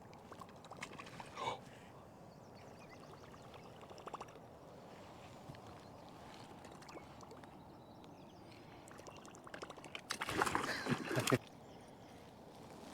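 River water lapping and trickling around a kayak, with a few small knocks, and a louder burst of splashing and rattling about ten seconds in that lasts just over a second.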